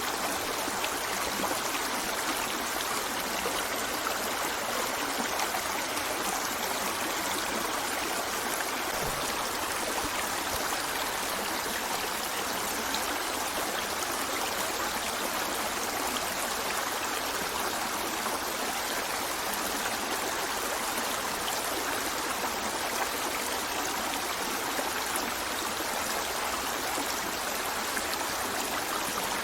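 River water running over rocks: a steady, even rushing with fine trickling.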